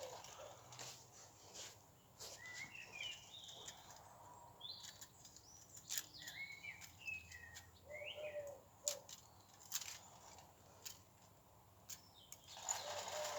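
Faint birdsong: short rising and falling chirps in a few clusters, with a low call now and then and scattered light clicks.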